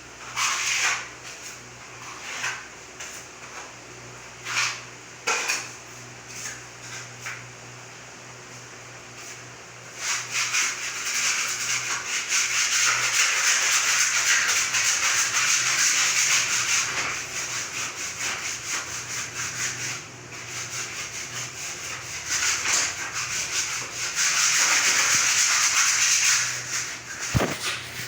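Abrasive hand sanding of a plaster and putty wall. A few separate short strokes come first, then from about ten seconds in, continuous rapid back-and-forth rasping that eases for a while and grows strong again near the end.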